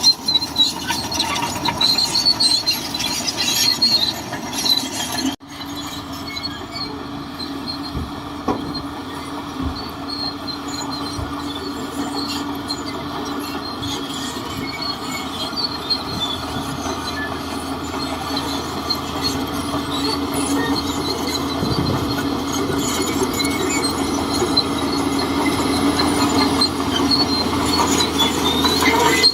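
Shantui DH17C2 crawler bulldozer working: its engine running steadily while the steel tracks squeal and clank. The sound breaks off abruptly about five seconds in, then carries on a little quieter and slowly grows louder.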